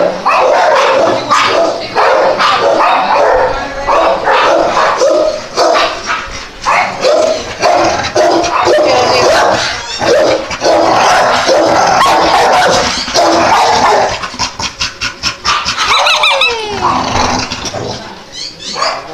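Dogs barking and yapping almost without pause, several at once, for about fourteen seconds; then the barking breaks into separate barks, with a falling whine about two-thirds of the way through.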